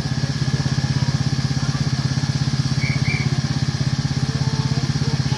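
Small engine of a miniature railway locomotive running steadily, with a rapid, even beat.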